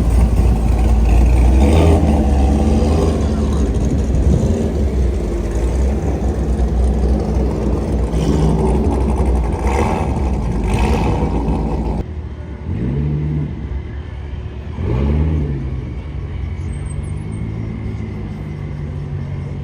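Car engines running with a heavy low rumble. After an abrupt change about two-thirds of the way through, an engine is revved twice, its pitch rising and falling each time, then settles back to a steady run.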